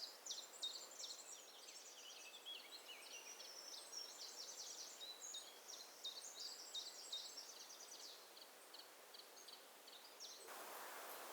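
Wild birds singing: rapid, high twittering and trilling that thins out and fades over the first several seconds. Near the end it gives way abruptly to a steady soft outdoor hiss.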